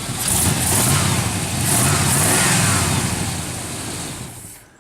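Pickup truck engine revved twice, each rev rising and falling back, then the sound drops away sharply near the end. The truck has a new exhaust manifold and headers, and its rev is said to be not as annoying now.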